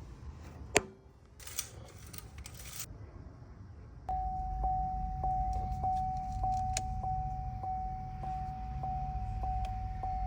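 A sharp click, then keys jangling. About four seconds in, the car's steady warning tone comes on, with a light tick roughly every half second, over a low rumble.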